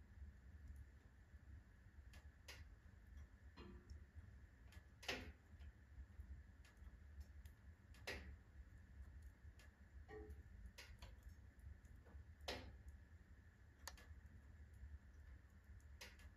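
Firewood burning in a wood-burning stove: sparse, irregular crackles and pops over a faint low rumble, the loudest pop about five seconds in.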